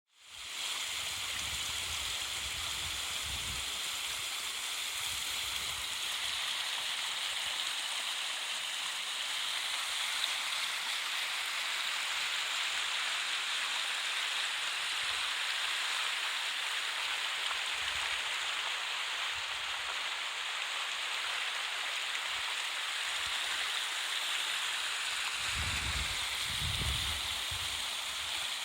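River water rushing steadily over its bed, an even, unbroken flow.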